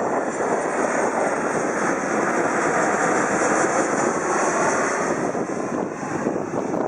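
Jet airliner passing low overhead, its engine noise swelling to a peak around the middle and easing off toward the end.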